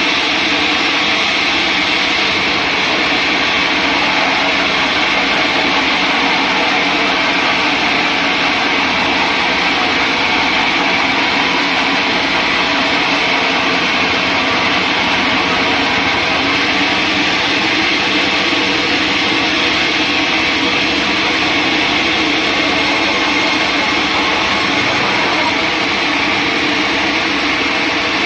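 Sawmill saw running steadily, an even, unbroken noise that holds the same level throughout.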